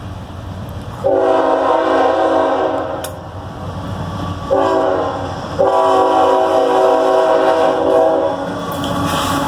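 Norfolk Southern diesel locomotive's air horn blowing a chord of several notes in three blasts, a long one, a short one and another long one, over the low rumble of the approaching train.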